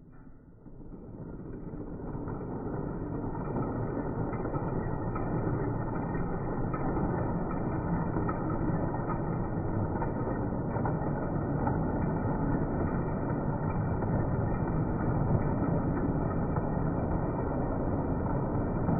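Model train running on its track: a steady rumble of motor and wheels on the rails, swelling over the first few seconds and then holding even.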